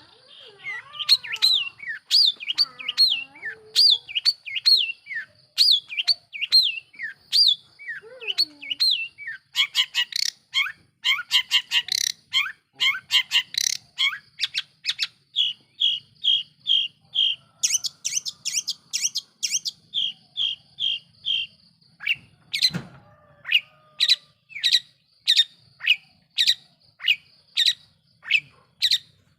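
Long-tailed shrike (cendet) singing a loud, varied song of sharp, rapidly repeated chirps and short whistled notes, changing phrase every few seconds: gliding notes at first, then a fast dense chatter, then evenly spaced chirps about two a second. A faint steady high tone runs beneath, and a single knock sounds about two-thirds through.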